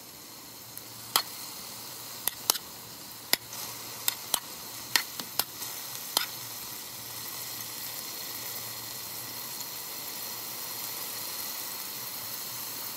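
Peppers, onions and garlic sautéing in oil in a metal pot: a steady sizzle, with about ten sharp clicks in the first six seconds or so while they are stirred with a spatula, then sizzling alone.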